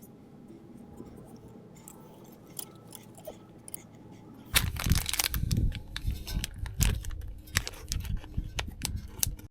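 Close crunching and rustling handling noise with many sharp clicks, starting suddenly about halfway through after a few faint ticks, and cutting off at the end.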